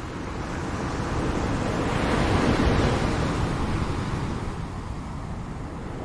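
Ocean surf: one wave swells up, breaks about two and a half seconds in, then washes out and fades, over a steady low rumble.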